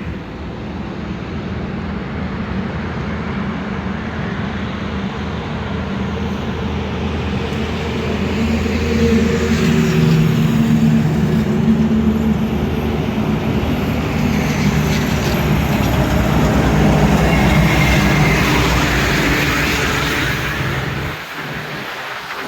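Heavy truck's diesel engine running with road noise, a steady low drone that grows louder midway and drops off near the end.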